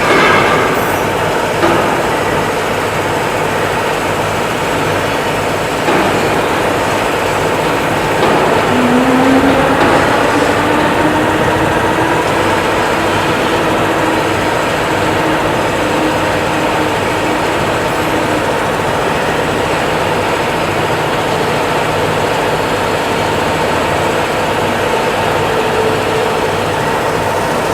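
Steady mechanical running noise, with a motor's pitch rising about nine seconds in and then holding steady; a few knocks near the start.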